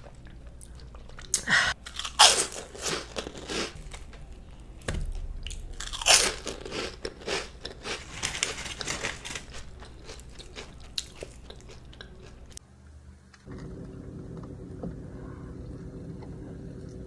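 Close-miked eating: loud crisp crunching bites and chewing of crunchy fried food in two clusters. After an abrupt cut near the end, quieter chewing over a steady low hum inside a car.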